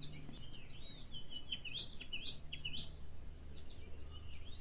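Small birds chirping, many short high calls in quick succession, over a faint steady low hum.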